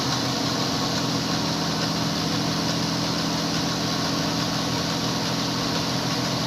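BMW engine idling steadily, with a hiss from the engine bay over its low hum. The noise is put down to the timing chain.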